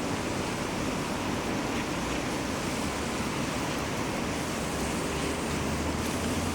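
Steady rushing hiss of heavy rain, with a low steady rumble underneath.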